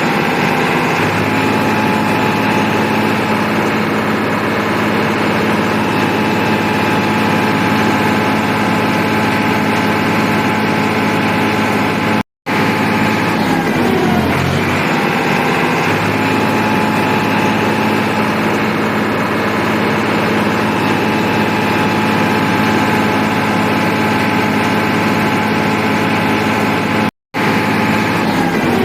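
Tractor engine running steadily, with a short rise and fall in pitch near the start and again about halfway through. The sound cuts out for an instant twice.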